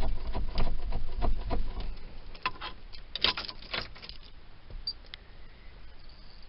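Irregular clicks and knocks, with low thumps in the first couple of seconds and a cluster of sharper clicks about three seconds in, then tapering off: the gas pedal of a 1968 Cadillac being pumped to set the carburetor choke before a cold start.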